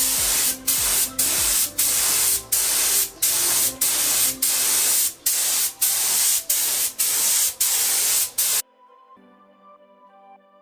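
Compressed-air spray gun spraying two-part anti-corrosion primer, hissing in short repeated bursts about every half second as the trigger is pulled on each pass. It stops about 8.5 seconds in, leaving only faint background music.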